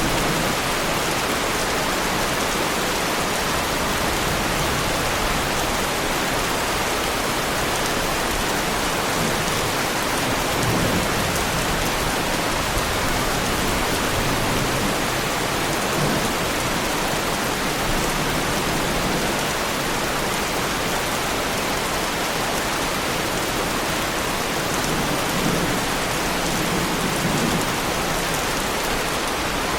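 Heavy rain falling steadily, with a few soft low rumbles about ten seconds in and again near the end.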